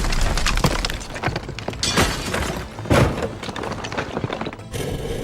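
Sound effects of crashing and breaking: a rapid string of knocks and cracks, with two louder crashes about two and three seconds in.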